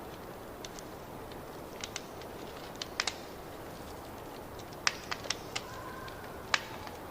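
Wood fire burning in a fireplace: a steady low hiss with scattered sharp crackles and pops, a cluster of louder snaps about five seconds in.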